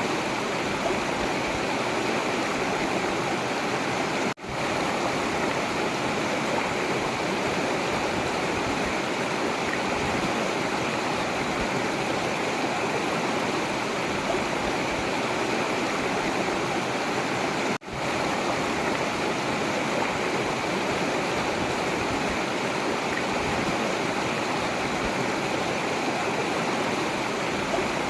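A forest river flowing, a steady, even rush of water. The sound cuts out abruptly twice and comes back within a moment.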